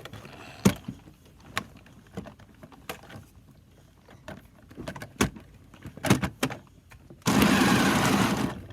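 Scattered clicks and knocks of plastic toy cars being handled, then the small electric motor of a toy car running for about a second and a half near the end.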